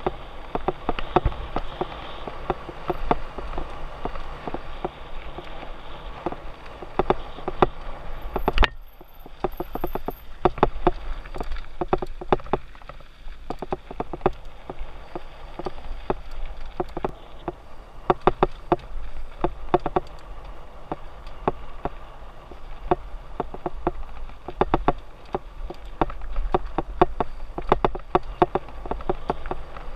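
Mountain bike rattling and clattering over a rough dirt trail, tyres crunching on gravel and rocks, with one sharp knock about nine seconds in.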